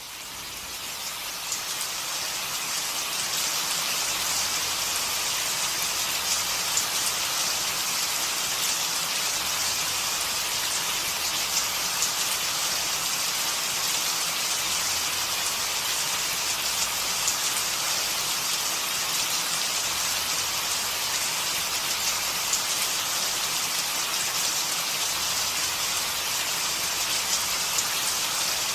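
Steady rain falling, a dense hiss of rain on surfaces with scattered drop ticks, fading in over the first few seconds.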